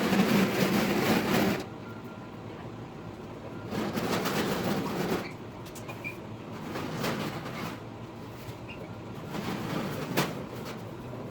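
Grill assembly work played back four times fast: bursts of mechanical rattling and clatter from parts and tools being handled, with a few sharp clicks. The loudest burst comes first, and shorter ones follow roughly every three seconds.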